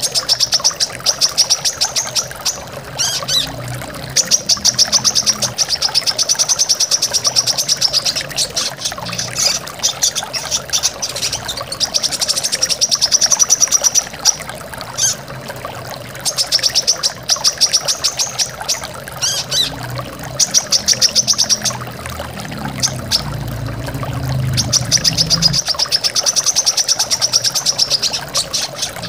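Brown-throated sunbird (kolibri kelapa) singing in phrases of very fast, high trills, each a second or few long and repeated with short gaps, over the steady rush of flowing water.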